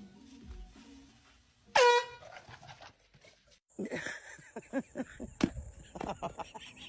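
A short, loud pitched honk about two seconds in. It sweeps up quickly at its start and holds for about a third of a second. A busier run of clicks and knocks with short pitched cries follows in the second half.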